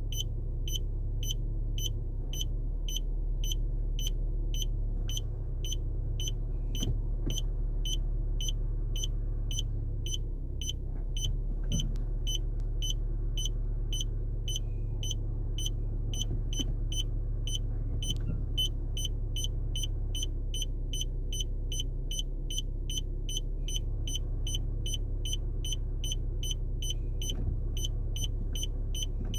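Car reverse parking sensor beeping, short high-pitched beeps repeating evenly about twice a second, warning of an obstacle behind the car. A steady low rumble runs beneath.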